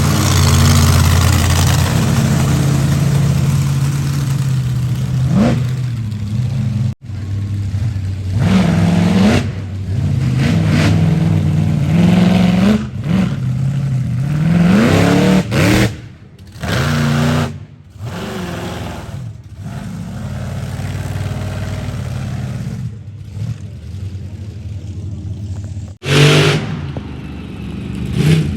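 Monster truck engines running loud and revving hard again and again, the pitch sweeping up sharply and falling back several times. The sound breaks off abruptly for a moment a few times.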